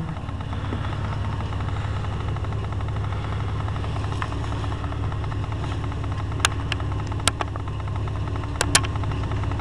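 Ford Explorer Sport's engine idling steadily with a low, even rumble. A few sharp clicks come in the second half.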